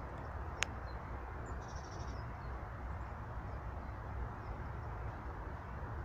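A small songbird's short call of rapid repeated notes about one and a half seconds in, just after a single sharp click, over a steady low outdoor rumble.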